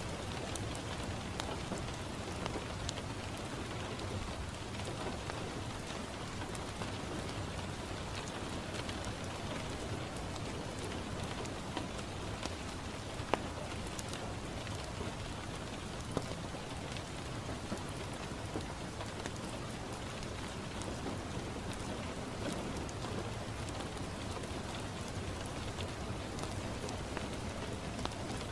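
Steady rain falling on a window, mixed with the light crackle of a wood fire in a fireplace. Two sharper pops stand out about halfway through.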